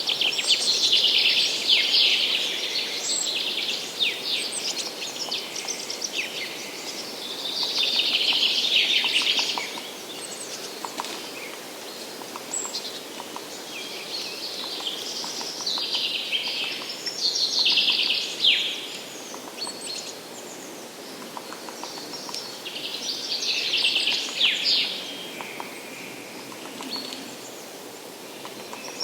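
Songbirds singing in early spring: bright, high song phrases of a second or two, repeating about every six to eight seconds, over a faint steady hiss.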